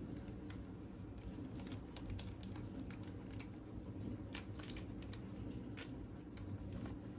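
Light, irregular clicks and taps from small objects being handled, over a low steady hum.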